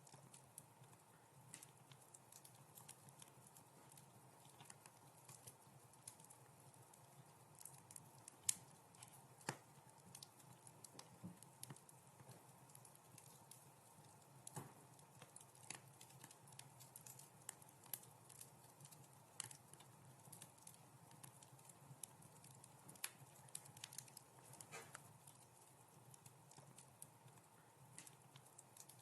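Wood fire crackling in a fireplace: irregular sharp pops and snaps over a faint low rumble, one pop louder than the rest about eight and a half seconds in.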